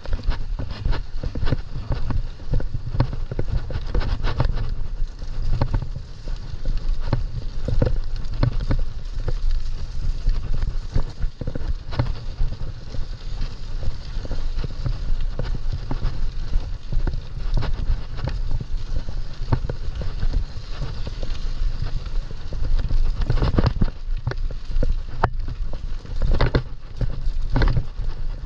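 Mountain bike rolling over a rough trail: irregular rattling clicks and knocks from the bike and the ground under its tyres, over a constant low rumble.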